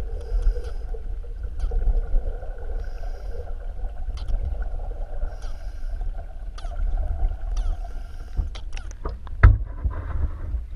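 Scuba diver breathing underwater through a regulator. A short hiss on each inhalation comes about every two and a half seconds over a steady rumble of water and bubbles. A couple of sharp knocks come near the end.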